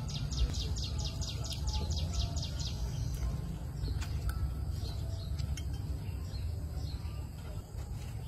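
A bird gives a rapid series of a dozen or so high chirps, about four or five a second, over the first three seconds, then a few scattered faint chirps, over a steady low rumble.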